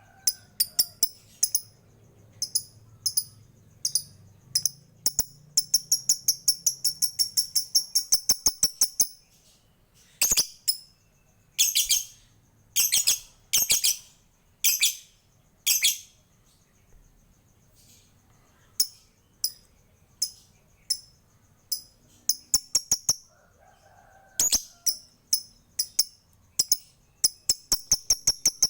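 Lovebird calling in runs of sharp, high chirps, with a long fast rattling series of about six notes a second (the 'ngekek' chatter) and scattered single ticking notes ('ngetik').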